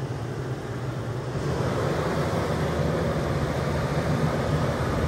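Vehicle engine idling steadily, a low even hum under outdoor noise that grows a little louder about a second and a half in.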